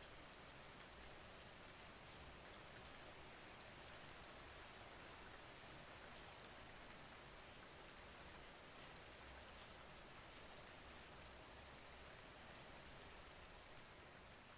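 Faint, steady rain, a continuous patter with fine scattered drop ticks.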